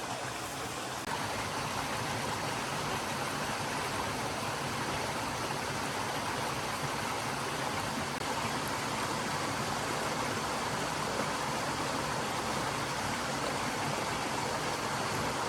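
A stream flowing with a steady rush of water, getting slightly louder about a second in.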